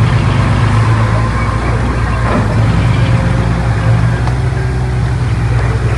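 Heavy construction machine's diesel engine running steadily with a low, slightly pulsing drone.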